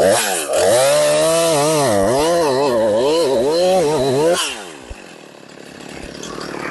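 Chainsaw cutting the horizontal base cut of a felling notch into a tree trunk, the engine loaded with its pitch rising and falling as the chain bites. About four and a half seconds in the cut is released and the engine drops back to a quieter idle.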